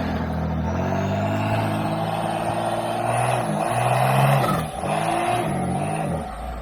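Off-road 4x4's engine running at low speed on the trail, then revving up and down in several short blips about halfway through.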